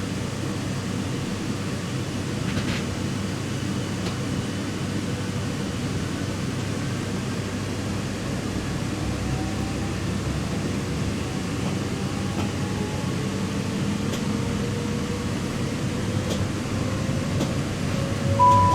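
Electric train running, a steady rumble with a faint motor whine that rises slowly in pitch. Just before the end there is a brief two-note tone, high then lower.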